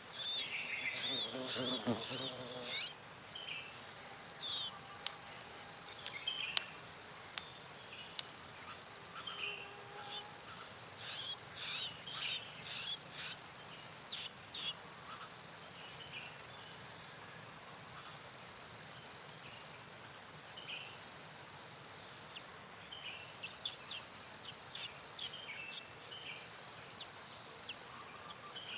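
A steady, high-pitched insect chorus of crickets or cicadas, swelling into rapid pulsing runs every couple of seconds.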